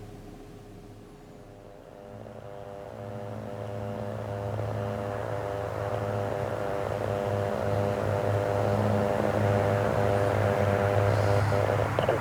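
Aircraft engine sound growing steadily louder as a plane approaches, a steady pitched drone with several overtones over a low hum.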